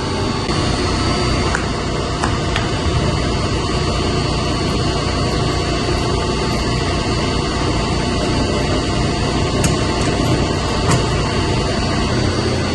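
Steady drone of a running York chiller's compressor, with a constant high whine over a low hum, and the plant's pumps. A few faint clicks of parts being handled come through it.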